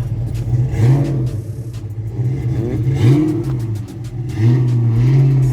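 Car engine running with its exhaust note rising and falling as it is revved: a short blip about a second in, another about three seconds in, and a longer rev near the end.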